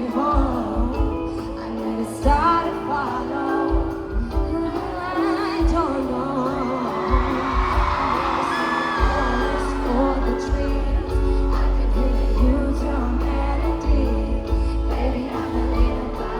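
A female pop singer singing a slow ballad live over held accompanying chords. A deep bass comes in about halfway through.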